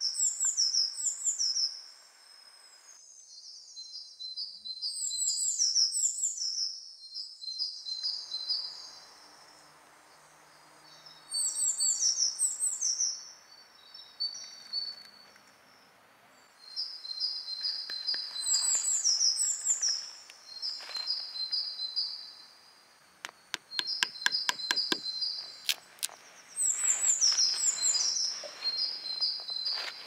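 A songbird singing a short phrase of quick notes that fall in pitch, repeated every few seconds over faint background noise. A quick run of sharp taps comes about three-quarters of the way through.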